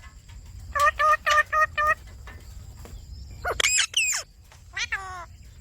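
Pet ringneck parakeet calling: a quick run of five short, even squawks about a second in, then a pair of high sweeping screeches around the middle and a single falling call near the end.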